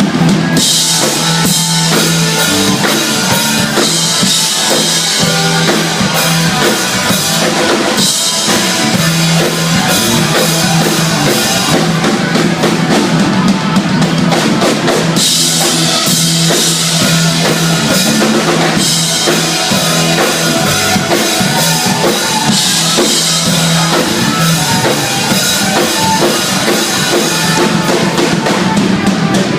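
Live band jamming an instrumental blues passage, led by a drum kit with bass drum, snare and cymbals over a repeating low bass riff; the cymbal wash swells and drops back every few seconds.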